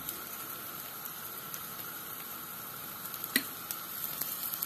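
Liver fritters frying in hot oil in a frying pan: a steady sizzle with scattered small pops, and one sharper tick about three and a half seconds in.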